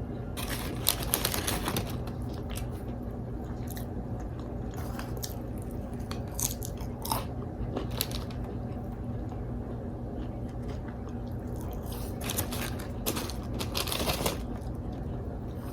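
Close-miked eating: biting and chewing crunchy food, with clusters of crunches near the start, in the middle and near the end. A steady low hum runs underneath.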